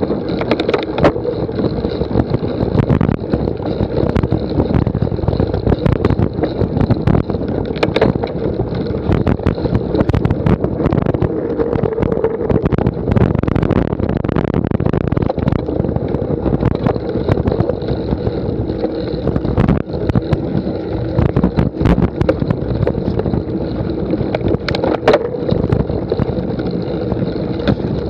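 Cyclocross bike rattling and jolting over rough ground, with wind noise on the microphone. The loud rough noise is steady throughout, with frequent sharp knocks and clicks.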